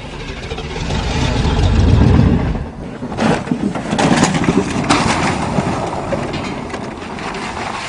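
A vehicle's engine running with a low rumble that swells and then fades, followed by a few sharp knocks and clatters.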